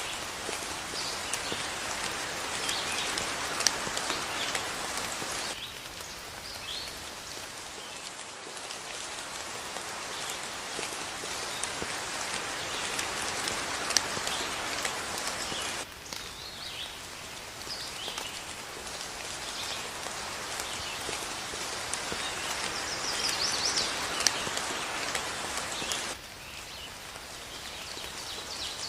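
Steady rain falling, with a few sharp single drips standing out and faint bird chirps above it. The rain changes abruptly in level about every ten seconds.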